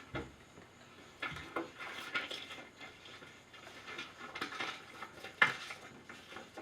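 Scattered light clinks and clatter of small hard objects being handled, with a sharper knock about five and a half seconds in.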